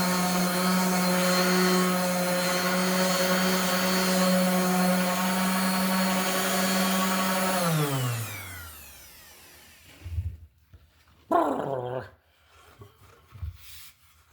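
Electric hand sander running steadily on elm boards with 80-grit paper, then switched off about eight seconds in, its motor winding down in pitch over a couple of seconds. A few light knocks follow.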